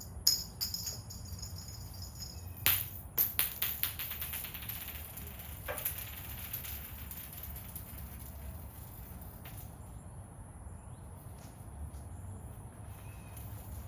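Rattling, jingling clicks of cat toy balls being handled and tossed, in clusters at the start and again around three seconds in, with a few scattered clicks later. Steady high insect chirring runs underneath.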